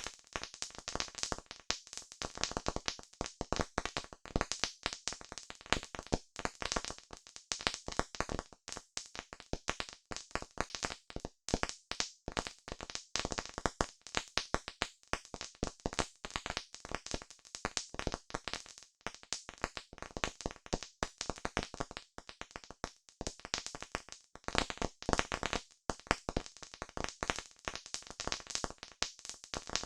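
Campfire crackling: wood burning with a steady run of irregular sharp pops and snaps.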